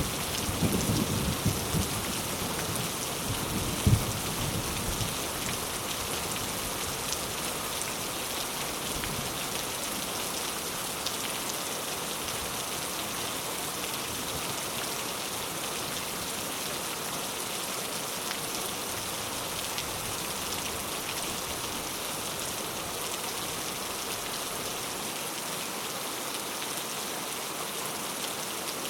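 Steady rain falling, with a low rumble of thunder dying away over the first few seconds and one short thump about four seconds in.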